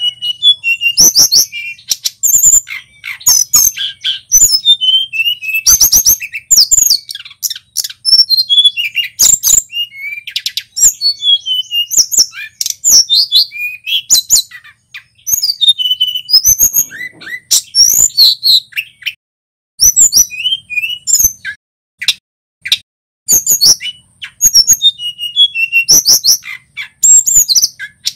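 Male tledekan gunung songbird singing continuously in rapid runs of high chirps and whistled, sliding notes, broken by a few brief pauses.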